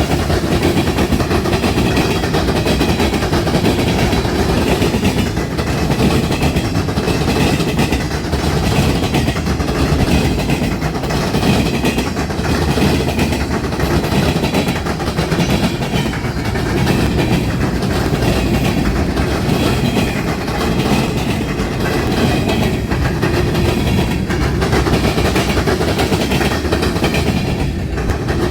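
A train rolling steadily past, its cars' wheels clattering over the rails.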